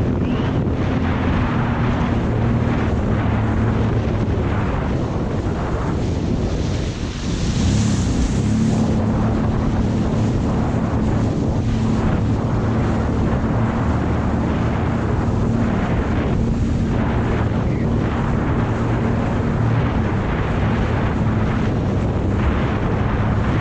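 Jet ski engine running steadily under way, with wind buffeting the microphone. About seven seconds in the engine note drops briefly, then climbs back up and holds, with a short burst of hiss.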